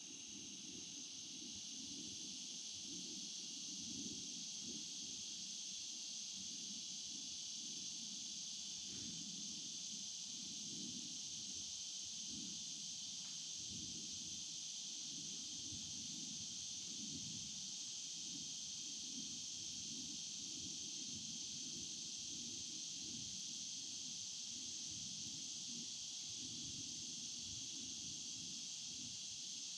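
Small stream flowing with a low burbling, under a steady high-pitched chorus of insects.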